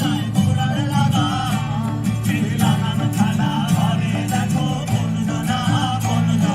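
Live Bengali folk song: singing over plucked strings and other instruments, with a steady percussive beat.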